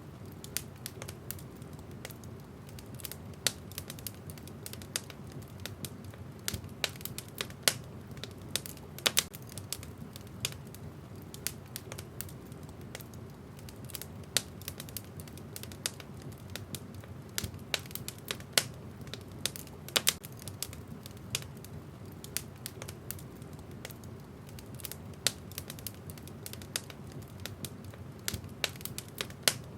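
Wood fire burning in a fireplace: a steady low rumble of the flames with irregular crackles and pops from the burning logs, a few of them sharp and loud.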